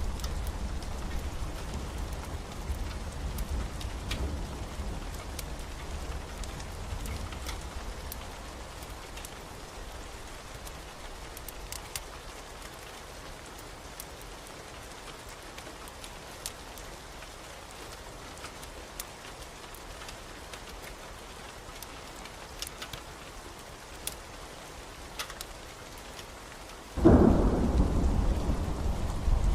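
Thunderstorm ambience: steady rain with scattered sharp ticks, and a low rumble of thunder that fades over the first several seconds. Near the end a loud thunderclap breaks in suddenly and keeps rumbling.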